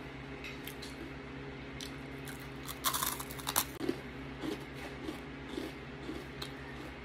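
Batter-fried banana being bitten and chewed close to the microphone: a burst of crisp crunches about three seconds in, then softer chewing about twice a second.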